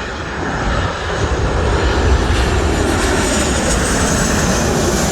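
Boeing 737 jet engines passing close on landing, a loud steady roar that builds over the first second, with a faint high whine above it.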